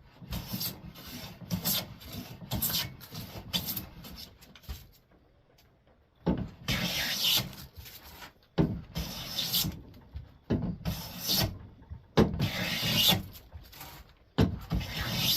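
Hand plane shaving a board's edge, its blade just set for a lighter cut: a run of short, quick strokes, a brief pause, then about five longer, even passes of the plane along the wood.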